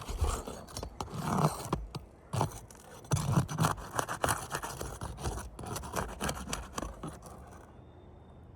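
Irregular scraping, with sharp clicks and knocks, from hand work on roof shingles during a shingle repair. It dies down near the end.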